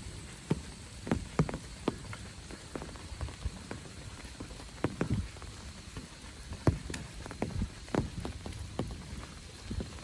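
Rain falling, a steady hiss with large drops tapping irregularly on a nearby surface, one to three taps a second.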